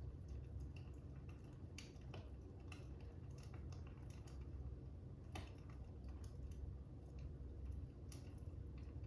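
Fire crackling: faint irregular pops and snaps over a steady low rumble, a few pops standing out louder.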